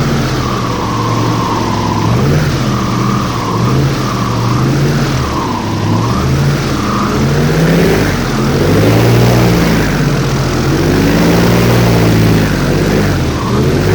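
Airboat engine and propeller running, revved up and down over and over so the pitch rises and falls every one to two seconds.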